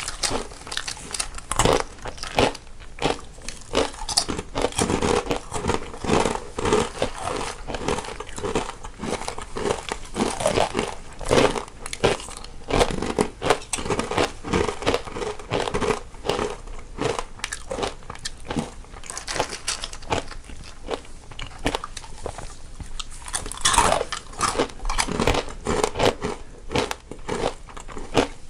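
Two people biting and chewing crunchy snacks close to the microphone, a dense, irregular run of crunches and crackles.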